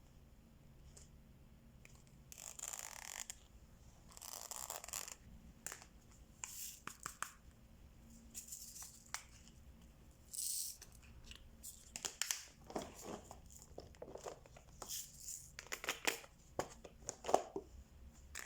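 Diamond-painting supplies being handled up close: a few short bursts of plastic rustling and peeling, then a quick run of small clicks and taps in the second half.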